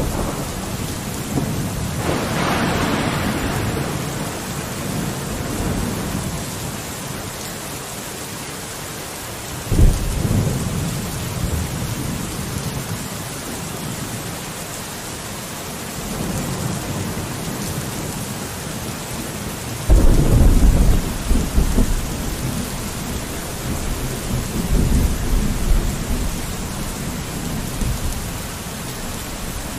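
Steady rain on a window with thunder rumbling. Rolls of thunder come in about two seconds in, again about ten seconds in, and most loudly about twenty seconds in, then die away into the rain.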